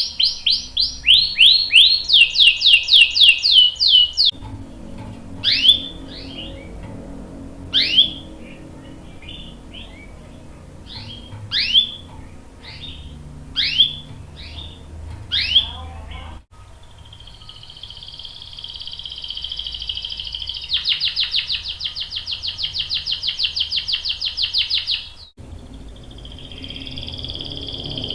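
Domestic canary singing. It opens with fast rolling trills, breaks into a string of single downward-sweeping chirps spaced a second or two apart, and after an abrupt cut goes into a long, even rapid roll.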